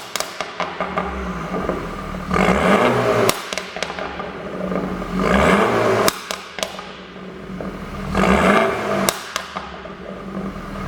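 A BMW F30 320i's 2.0-litre turbocharged four-cylinder revved in three short blips about three seconds apart, each followed by a string of sharp exhaust pops and crackles as the revs fall. The pops are produced by a pop-and-crackle engine tune.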